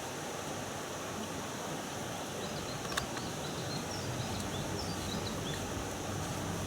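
Steady outdoor background noise with a single sharp click about three seconds in and a few faint, short high chirps around the middle.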